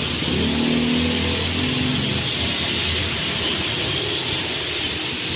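A motor running steadily, with a constant hiss and a low hum.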